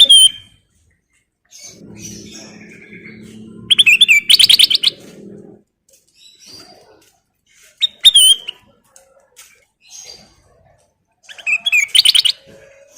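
Kutilang emas (black-capped bulbul) singing loud phrases of rapid, repeated notes, three phrases a few seconds apart, with softer calls between them.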